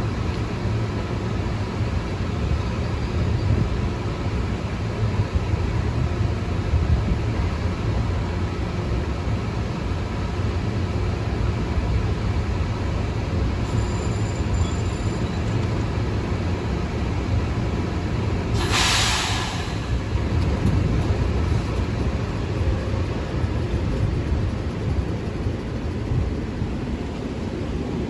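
Long Island Rail Road train running through the station with a steady low rumble. A short hiss of air, about a second long, comes about two-thirds of the way in.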